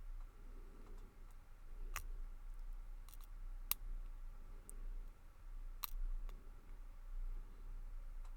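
Lock pick and tension wrench working the pin stack inside a Lockwood 334B45 brass padlock: a handful of sharp, scattered metallic clicks among fainter ticks, all kinds of weird noises from this lock.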